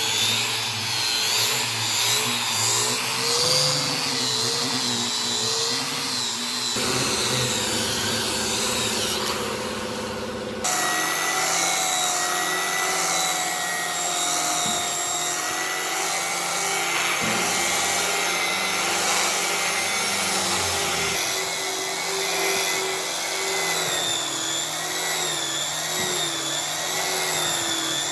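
Electric power tools running on wood, their motor pitch wavering as they are worked, heard in several cut-together stretches with abrupt changes about seven and eleven seconds in.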